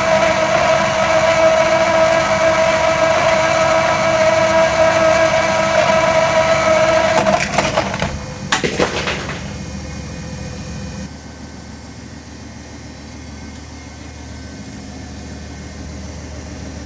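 A steady, high whining drone like a vehicle engine for about seven seconds, broken off by a short clatter of knocks and cracks, then a faint hiss.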